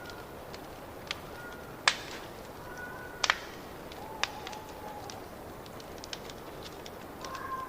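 Wood fire crackling in a fireplace: sharp irregular pops and snaps over a steady hiss, the loudest a little under two seconds in and a quick double pop about three seconds in, with a few faint short whistling tones.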